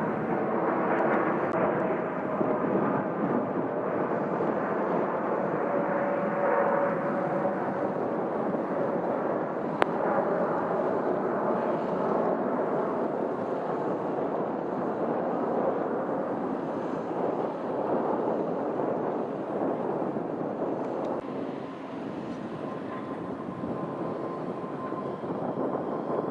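Jet airliner engines running: a steady rush with faint whining tones, dipping a little about two-thirds of the way through. A single sharp click sounds about ten seconds in.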